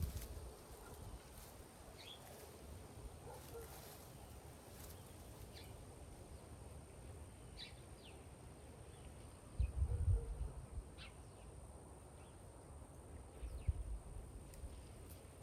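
Faint outdoor ambience with scattered short bird chirps, and low dull thumps about ten seconds in and again near the end.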